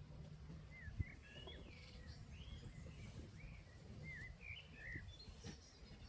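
A small bird chirping outdoors in a quick series of short, bending notes, with one sharp low thump about a second in over a faint low background rumble.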